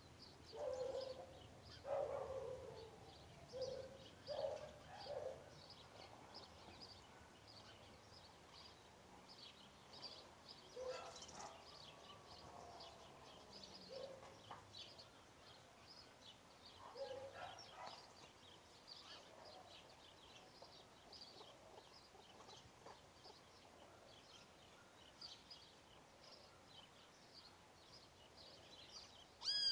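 Faint, rapid high chirping of small birds throughout, with a few lower calls in the first few seconds and again now and then. Right at the end comes one loud, falling call.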